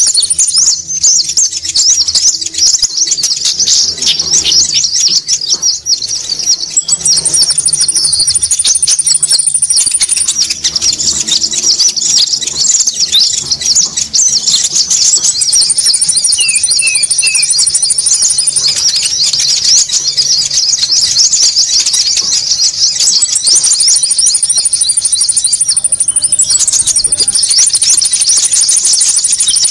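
Busy chorus of small birds chattering over one another in rapid high chirps, with a thin, very high whistle held for two to three seconds that comes back several times. It is a 'ribut' konin bird lure call, meant to draw small birds in.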